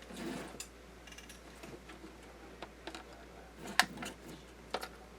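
Scattered small clicks and taps of tools and electronic parts being handled on a workbench, the sharpest a little before four seconds in.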